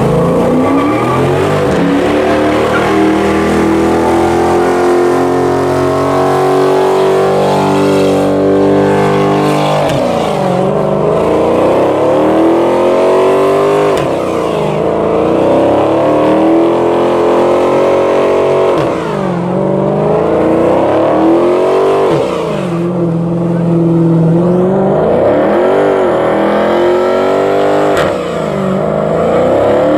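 A vehicle engine revved hard: held at high revs for about ten seconds, then dropping and climbing again in pitch every three to four seconds.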